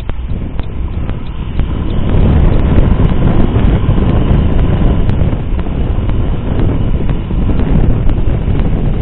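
Abnormal noise from a Samsung SGH-D720 mobile phone: a loud rushing, rumbling hiss with regular faint clicks about two to three times a second, growing louder about two seconds in.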